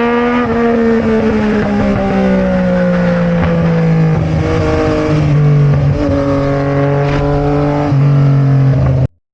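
Sport motorcycle engine running on the move, its pitch sliding down and shifting in steps with the throttle and gear changes, then cutting off abruptly near the end.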